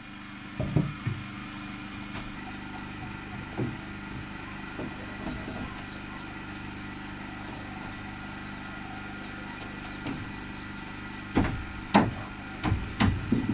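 Sharp knocks on wood during carpentry, a couple about a second in and a quick cluster near the end, over a steady mechanical hum like an engine running.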